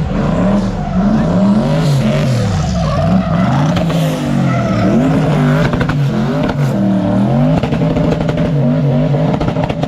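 A car engine revving hard, its pitch rising and falling over and over, about once a second.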